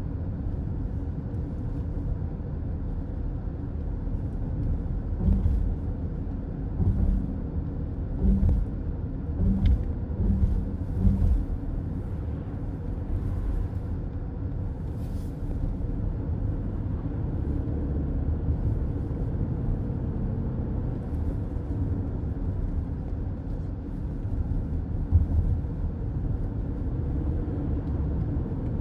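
Road noise of a car driving at highway speed, heard inside the cabin: a steady low rumble of tyres and engine, with a few short low thumps between about a fifth and two fifths of the way in.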